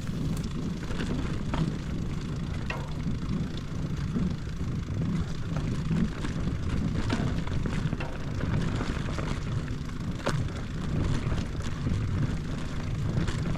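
Mountain bike being ridden along a dirt trail: a steady low rumble of tyres and riding noise, with scattered short clicks and rattles from the bike.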